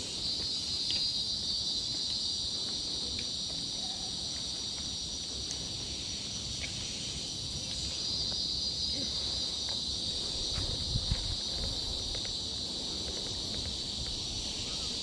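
Forest insect chorus: a steady high-pitched buzzing that swells and eases in long waves, with a couple of low thumps about eleven seconds in.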